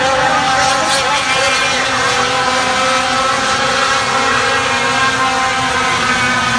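Several race trucks' engines running at speed around the track, a steady sound of several engine notes overlapping.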